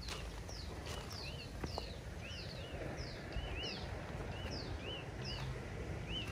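A bird calling over and over in short chirps about twice a second, each a quick falling whistle followed by a lower rise-and-fall note, over a steady low rumble.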